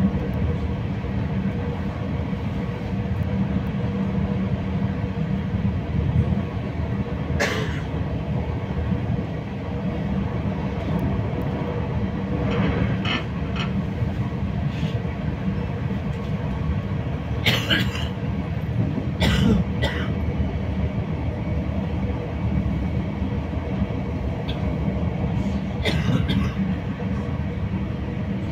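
Running noise of a moving passenger train heard from inside the carriage: a steady low rumble, broken by a few short sharp sounds spread through the stretch.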